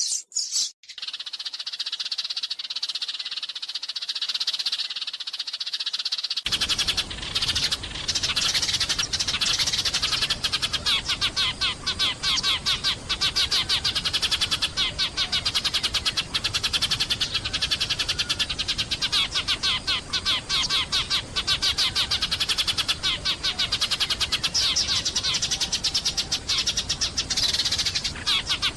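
Eurasian tree sparrows twittering, a dense run of quick, overlapping chirps. About six and a half seconds in, a steady hiss comes in beneath the chirping.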